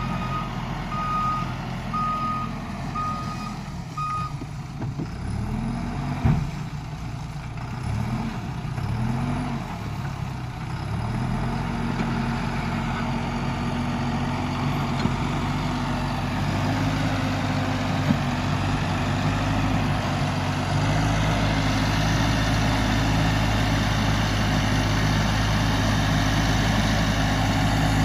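Backhoe loader's reversing alarm beeps four times, about once a second, over its running diesel engine. The engine then revs up and down repeatedly, with a single knock, and settles into a steady, higher, louder run in the second half.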